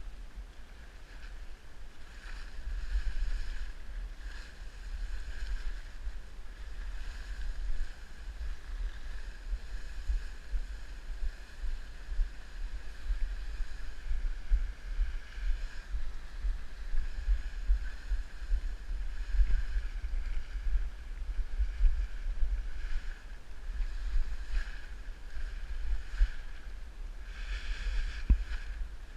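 Wind buffeting the microphone in uneven gusts, over a steady faint rushing hiss.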